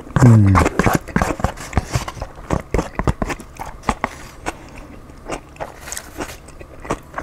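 Close-miked chewing and mouth smacking as a man eats a keto burrito bowl of chicken, vegetables and salsas, with irregular sharp clicks from the spoon in the bowl. A short low hum that falls in pitch comes right at the start.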